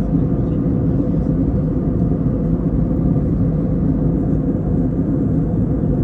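Steady low rumble inside the cabin of a Wizz Air Airbus A320-family jet in cruise flight: engine and airflow noise.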